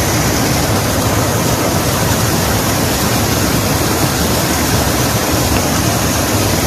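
Steady, loud rush of water in a flood, an even hiss with no breaks or distinct events.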